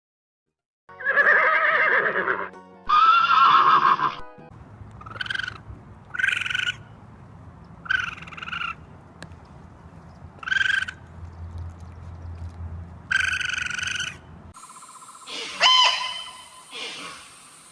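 A series of animal calls: two long calls, then several short calls repeated every second or two. Near the end a different animal calls over a steady high whine.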